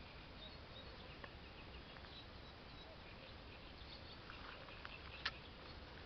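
Faint bird chirps over a steady low hiss, with a few small sharp clicks, the loudest about five seconds in.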